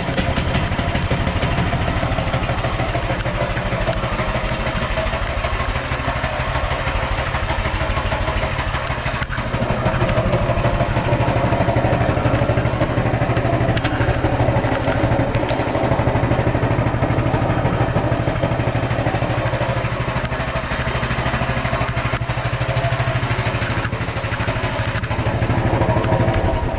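Coleman CT200U-EX mini bike's small single-cylinder four-stroke engine idling steadily, running a little louder from about ten seconds in.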